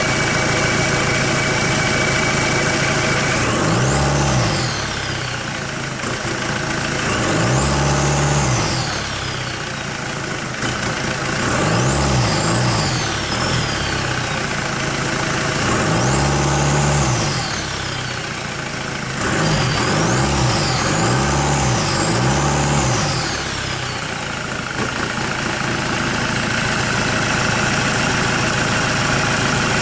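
Kia D4CB 2.5-litre four-cylinder common-rail turbodiesel, run on a test stand outside the car. It idles, then is revved up and let fall back about every four seconds, with three quick blips close together near the end, before settling back to idle.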